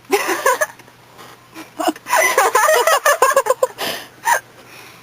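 Young women laughing and giggling in bursts: a short burst at the start, a longer stretch of laughter from about two seconds in, and one last short giggle near the end.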